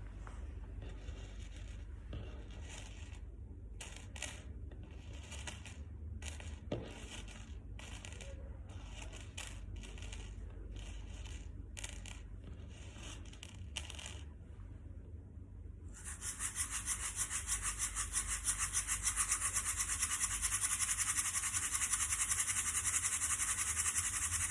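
Light, scattered clicks and rattles of small hard objects, then a homemade shaker filled with sprinkles shaken fast and evenly, a dense hissing rattle much louder than what came before, starting about two-thirds of the way through.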